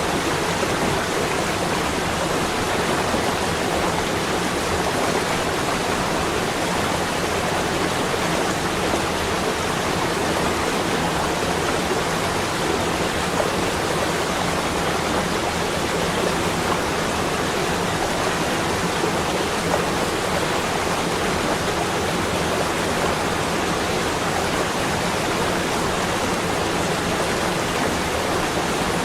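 Steady, even rushing noise with no breaks and no separate sounds in it.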